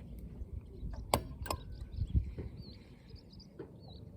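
Low, steady wind rumble on the microphone, broken by two sharp clicks about a second in and a dull knock a little after. Faint, high, short chirps repeat through the second half.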